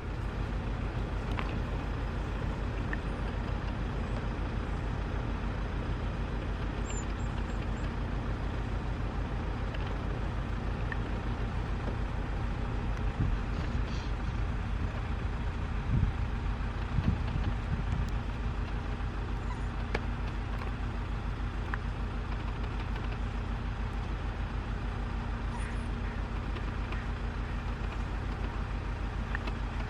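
A vehicle engine idling steadily with a low hum. A few soft thumps come about midway, and faint high chirps sound now and then.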